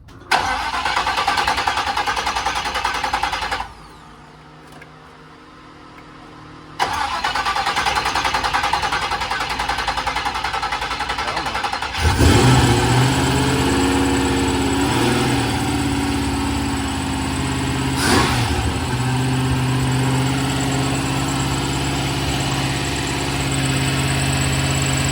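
Vehicle engine being cranked on its first start after a battery change, having sat for about three years: two bursts of cranking with a pause between, then the engine catches about halfway through and settles into a steady idle.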